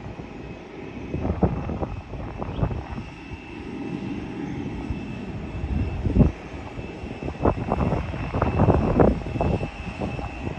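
Jet airliner engines running at the airport with a steady rumble and a thin whine, overlaid by irregular gusts of wind buffeting the microphone, heaviest about six seconds in and again toward the end.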